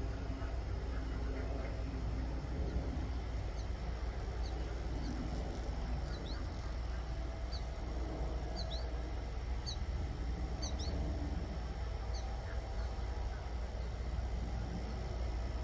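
Waterfowl calling faintly over a steady low rumble, with many short, high, falling chirps of a small bird through the middle of the stretch.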